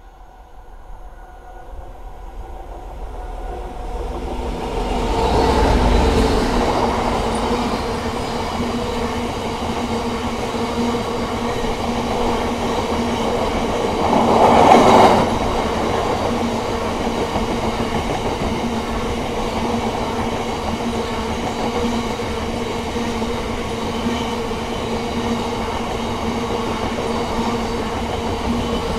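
DB Cargo Class 66 diesel locomotive, with its EMD two-stroke V12 engine, approaching and passing at speed. The sound builds over the first five or six seconds, then gives way to a long train of biomass hopper wagons rolling past with a steady clickety-clack of wheels on rail. A brief louder burst of noise comes about halfway through.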